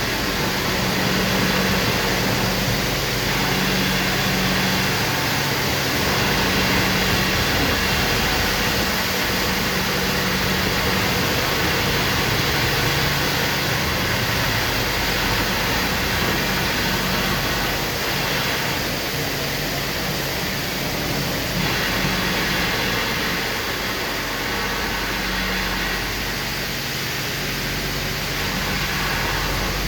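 Southern Pride Turbo automatic car wash running: a steady rushing noise with a low motor hum that comes and goes.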